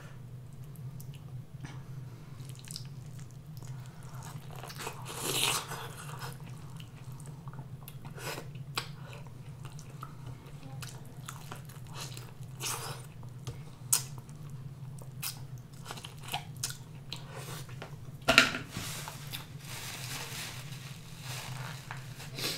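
Close-up eating sounds: biting into and chewing a butter-sauced corn on the cob, with wet mouth noises and scattered small clicks, and a couple of louder moments about five and eighteen seconds in. A steady low hum runs underneath.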